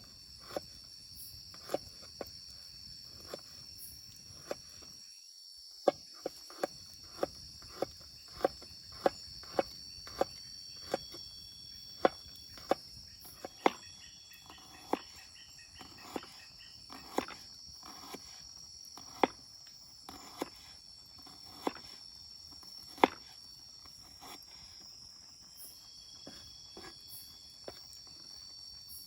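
Steady high-pitched drone of tropical forest insects, with sharp knocks about once a second. The knocks are the loudest sound. The whole sound cuts out briefly about five seconds in.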